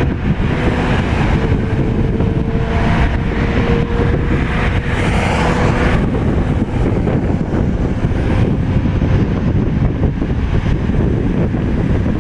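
Jet airliner engines giving a loud, steady rumble, with a faint whine that fades out about halfway through, and wind buffeting the microphone.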